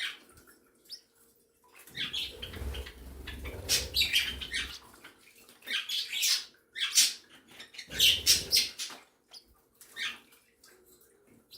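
Mixed flock of pet birds, budgies among them, chirping and calling in short bursts, with a low rumble twice, from about two seconds in and again about eight seconds in.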